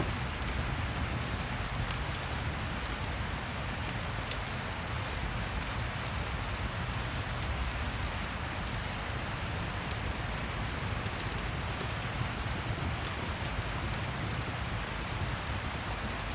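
Steady rain falling, a continuous even hiss, mixed with a fire crackling, with scattered small sharp crackles.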